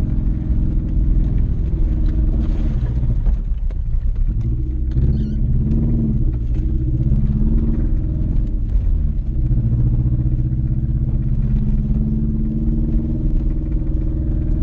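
1996 Toyota Celica's four-cylinder engine running under load. Its revs fall and rise several times in the middle, then it holds a steady pitch.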